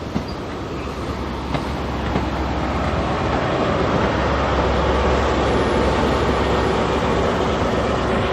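Train running on the line: a steady rumble that grows louder over the first three seconds and then holds, with a few faint clicks in the first couple of seconds.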